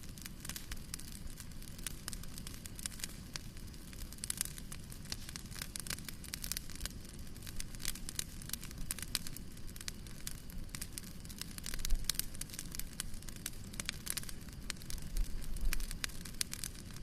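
Wood fire in a fireplace crackling and popping, a dense run of small sharp snaps over a low rumble. There is a louder low thump about two-thirds of the way in and a low swell near the end.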